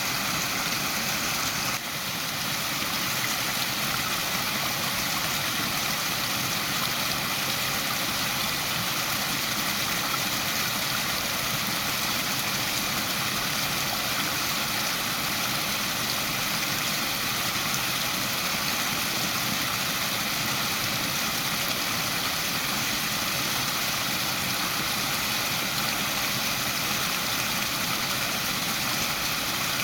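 Waterfall: a steady, even rush of falling water, with a brief dip in level about two seconds in.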